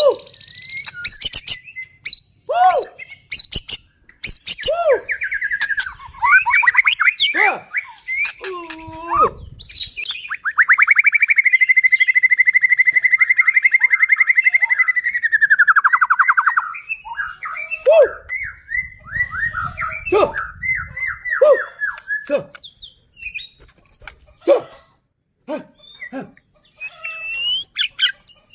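White-rumped shama (murai batu) in full song: varied whistles, quick glides and sharp clicking notes. About ten seconds in comes a long, fast chattering rattle lasting some five seconds, the harsh 'kretekan' churr of an excited male.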